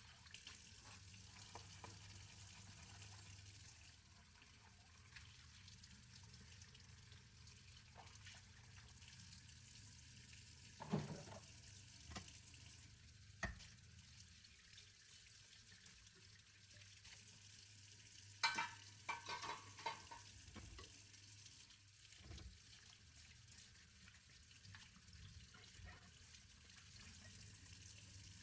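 Quiet hand dishwashing at a sink: a faint steady hiss of water under a few sharp knocks of dishes, then a short run of ringing clinks of crockery about two-thirds of the way through.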